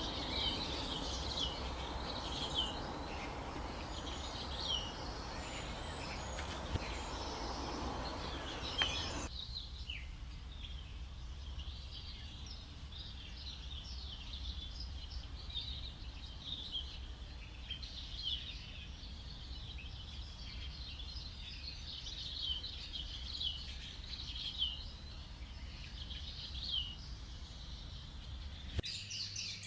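Many birds chirping and calling over a steady nature ambience. A fuller background noise under the birdsong drops out abruptly about nine seconds in, leaving the chirps over a quieter bed.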